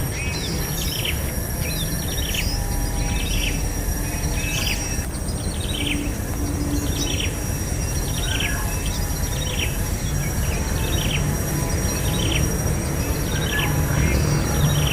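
A bird chirping over and over, with short downward-sliding notes about twice a second. Behind it are a steady high insect whine and a low rumble.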